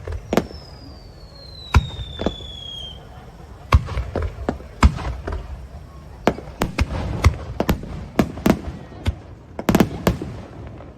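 Fireworks going off: an irregular string of sharp bangs and crackles from bursting shells, with a whistle falling in pitch for about two and a half seconds soon after the start.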